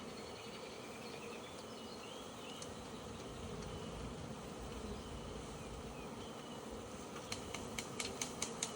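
Honeybee swarm buzzing, a steady hum of many bees. Near the end a quick run of sharp clicks joins in.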